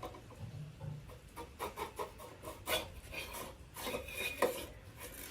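Muffler insert being worked out of a Yamaha RX100 silencer: a series of short, irregular scrapes and rubs as it slides against the exhaust.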